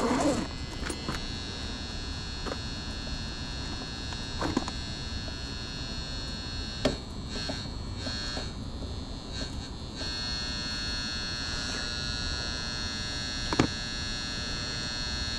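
Steady electrical buzzing hum from a furnace relay that switches power to an ECM motor. The technician takes this relay, not the transformer, for the source of the loud buzz. A few faint clicks sound over it.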